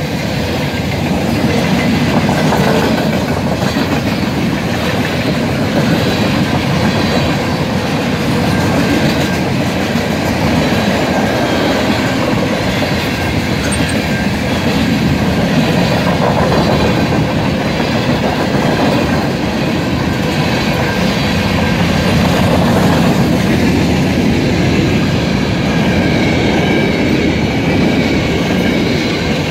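Train passing at speed over a level crossing, its wheels clattering over the rail joints with a steady loud rumble.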